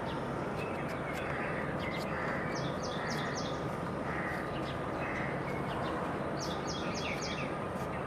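A bird singing a short phrase of four quick descending high chirps, twice, about two and a half seconds in and again near the end, over steady outdoor background noise with softer bird calls and a few faint ticks.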